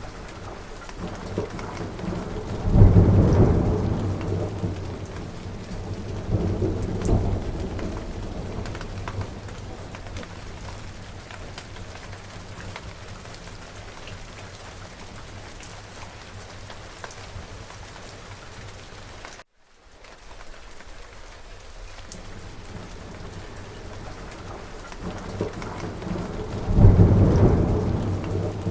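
Steady rain with rolling thunder. A loud thunderclap comes about three seconds in, a weaker rumble a few seconds later, and another loud one near the end. The sound cuts out for a moment about two-thirds of the way through.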